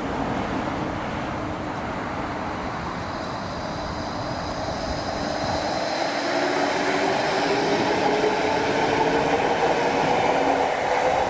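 Electric tram at a light-rail stop, its steady running noise growing louder, with a motor whine that rises in pitch over the second half as it gathers speed.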